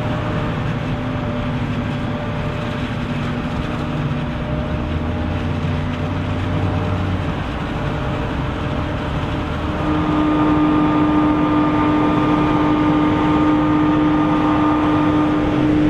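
Heavy harvest machinery running steadily under load during corn chopping: diesel engines with a low rumble. About ten seconds in, a louder steady whine comes in and the overall sound grows.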